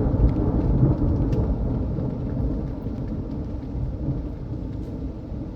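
Thunder rumbling over steady rain, loudest in the first second or so and slowly easing off, with a few faint ticks of raindrops.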